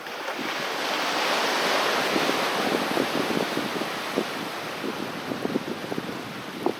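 Sea waves on a beach: a wave washes in, swelling over the first two seconds and then slowly ebbing, with a crackle of many small clicks throughout.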